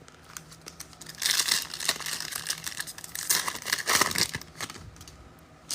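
A trading-card pack's wrapper being torn open and crinkled by hand, a dense crackling that starts about a second in and stops shortly before the end.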